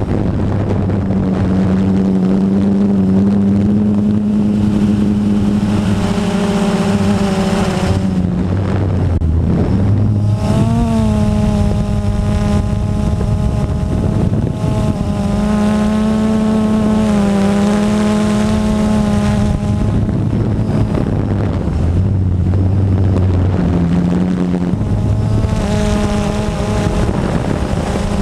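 A motor running steadily, its pitch shifting slightly now and then.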